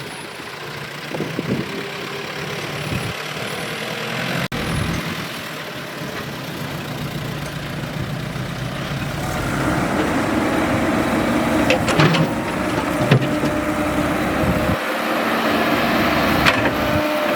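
Excavator's diesel engine running steadily, getting louder about two-thirds of the way through as it works harder, with a few sharp knocks near the end.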